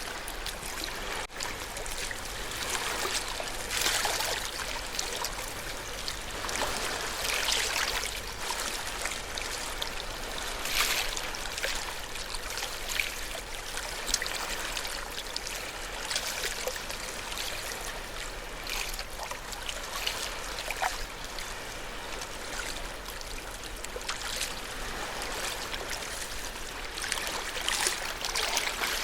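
Ocean waves washing onto the shore: a continuous wash of surf and fizzing water, swelling louder every few seconds as a wave breaks.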